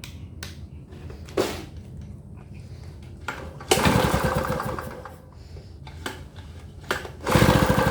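Gasoline inverter generator's recoil starter pulled twice, cranking the engine with its spark plug out in a spark test; each pull gives a fast, even ticking rhythm as the engine turns over and the plug sparks, showing the ignition coil and plug are working.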